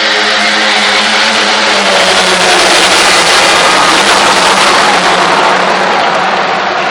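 Monster truck engine running loud, the noise swelling over the first few seconds and easing slightly near the end.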